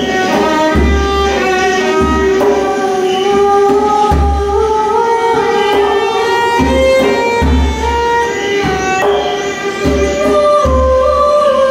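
Live violin playing long, sustained notes that step from pitch to pitch, over low drum beats landing about once a second.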